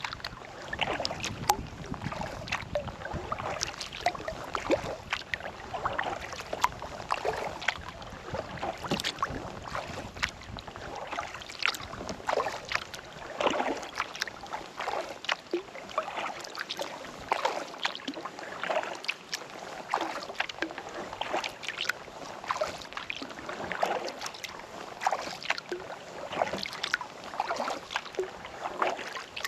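Kayak paddle strokes in calm lake water: the blades dip and pull, with many small splashes and water dripping off them.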